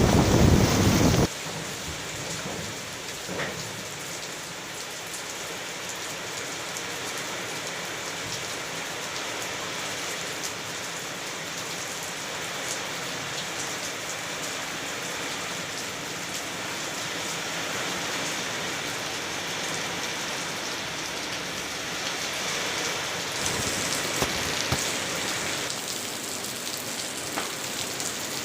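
Heavy rain falling steadily as a dense, even hiss. In the first second or so, loud wind buffets the microphone, then stops abruptly. The rain swells a little louder for a few seconds near the end.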